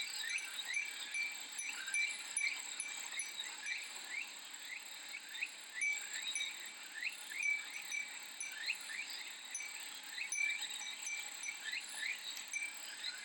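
Cicadas calling, a steady high pulsing buzz with a busy run of short repeated chirps, while a Japanese glass wind chime (fūrin) tinkles.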